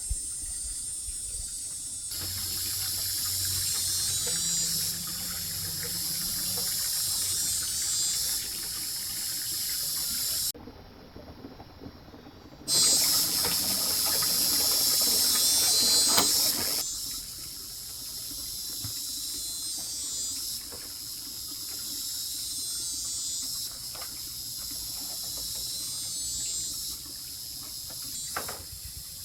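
Insects, probably cicadas, in a high-pitched buzzing chorus that swells and fades in waves and changes abruptly several times. About halfway through, a louder rushing noise runs for a few seconds.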